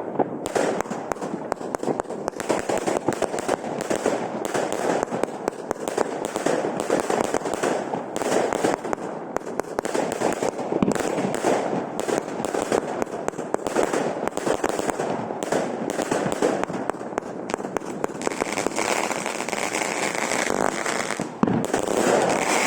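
Consumer firework battery (salute cake) firing a fast, unbroken string of shots and crackling bursts, with a louder bang near the end.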